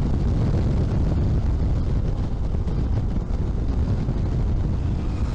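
Honda H'ness CB350's single-cylinder engine running at a steady cruise, mixed with wind rushing over the microphone. The level and low rumble stay steady throughout.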